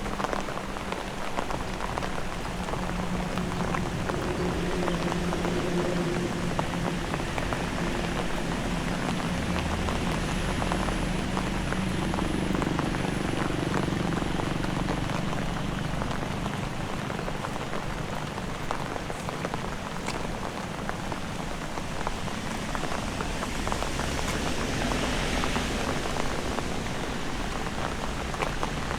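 Heavy rain falling steadily, countless drops pattering on surfaces. A low hum sits under it for much of the first half.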